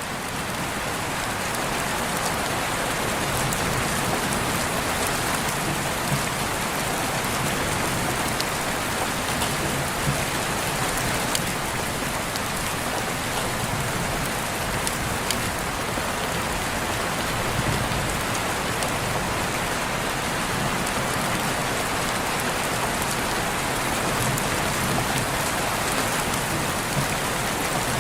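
Steady rain falling, an even hiss with scattered sharp drop ticks. It fades up over the first couple of seconds and then holds level.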